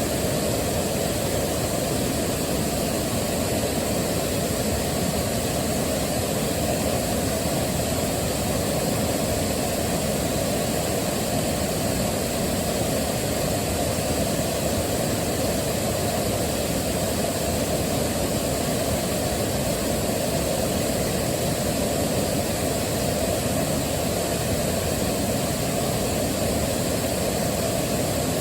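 Steady, unbroken rush of a waterfall, full and deep-toned.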